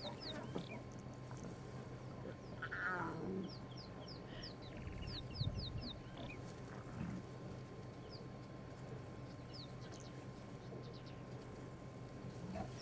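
Wild birds calling, a series of short, high, falling chirps repeated again and again, with a lower call about three seconds in, over a faint steady low hum.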